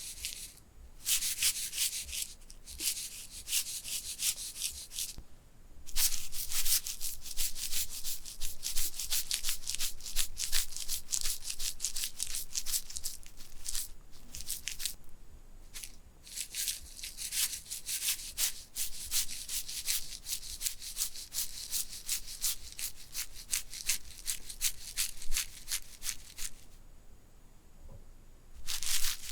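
Rapid scratching or rubbing strokes on an object held close to the microphone, the typical sound of an ASMR trigger. It comes in three long runs with short pauses between them.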